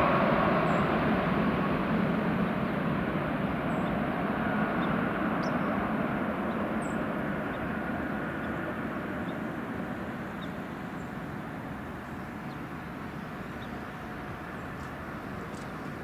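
Jet airliner's engine noise, a broad rumble that fades steadily as the aircraft moves away.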